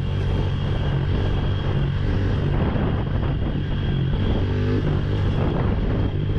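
Honda CRF110 pit bike's small single-cylinder four-stroke engine running at a steady, held throttle while the bike is ridden in a long wheelie.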